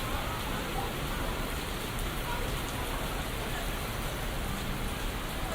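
Steady rain falling on city street surfaces, an even hiss of drops.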